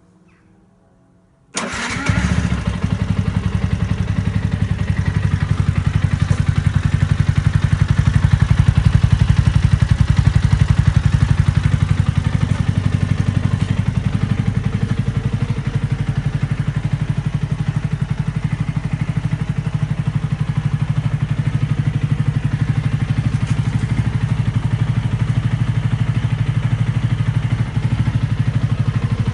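Carburetted Yamaha YZF-R125's single-cylinder four-stroke engine, fitted with a LeoVince aftermarket exhaust, starting suddenly about a second and a half in and then idling steadily through the exhaust.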